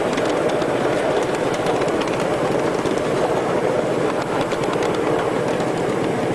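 Miniature ride-on railway train running on its track: a steady rolling rattle of small wheels with many quick clicks.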